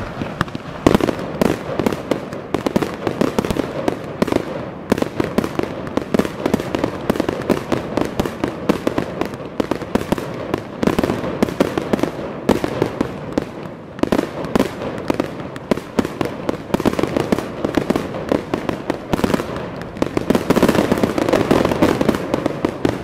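Spinning wheel fireworks on the water giving off a dense, continuous rapid crackling and popping, which swells louder near the end.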